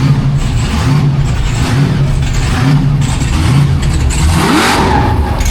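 Racing car engine revving, its pitch repeatedly climbing and dropping, with one sharper rise near the end.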